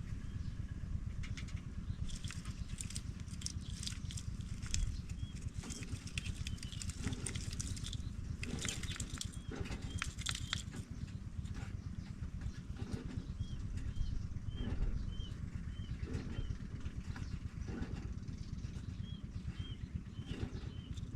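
Pipits chirping: bouts of short, high, arched notes, about three a second, coming four times, over scattered rustling clicks and a steady low rumble.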